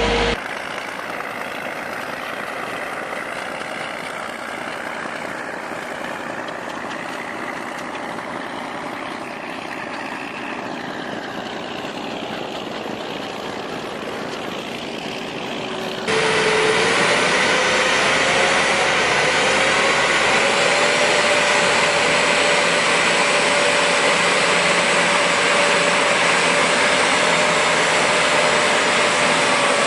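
Heavy machinery engines running, in two separate takes. The second starts abruptly about halfway through; it is louder, with a steady whine that rises slightly and then holds.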